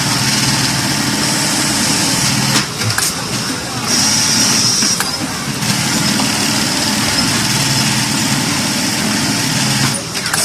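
Automatic eyelet buttonhole sewing machine running, a steady motor hum that drops briefly about two and a half seconds in and again near the end.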